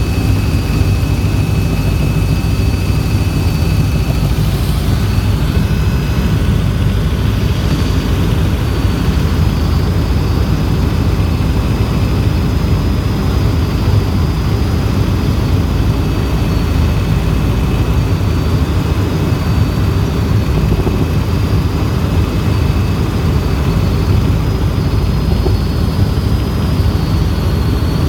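Helicopter in flight: steady, loud rotor and engine noise with a thin high whine over it.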